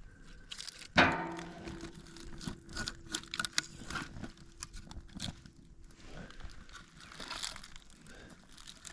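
Newly lit campfire kindling and fire starter catching, crackling and snapping, mixed with crinkling handling noises. A sharp knock about a second in is the loudest sound.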